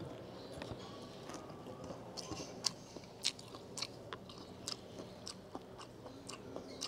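A person chewing a mouthful of sautéed bamboo shoots and rice, with faint, irregular wet mouth clicks and smacks.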